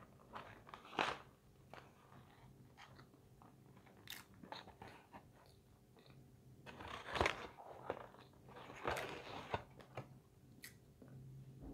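A person biting and chewing crunchy fried fast food (French fries) close to the microphone, in irregular crunches that are loudest about seven and nine seconds in.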